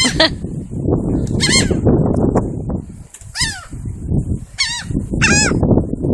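Birds giving short honking calls, about five of them a second or two apart, each a quick wavering cry, over a constant low rumbling noise.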